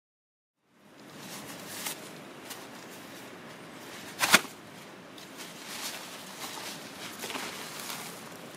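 Outdoor background hiss with a few light knocks and taps, and one loud sharp knock a little past the middle; the sound starts suddenly after a moment of silence.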